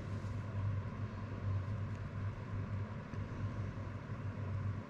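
Steady low hum with a faint background hiss, broken by a couple of faint light clicks.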